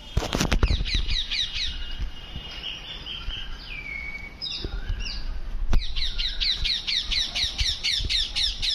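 A bird calling in rapid runs of short, high, downward-slurred notes, about six a second. One run comes near the start and a longer one from about six seconds in, with a few drawn-out whistled notes between them. A low rumble and a few sharp knocks are heard near the start.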